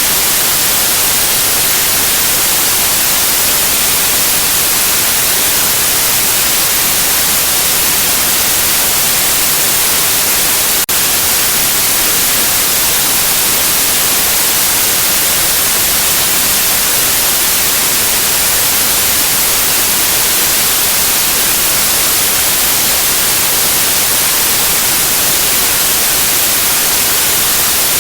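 Steady white noise: an even, unchanging hiss, strongest in the high frequencies, played as a soothing sleep sound for a baby. A tiny click breaks it once, about eleven seconds in.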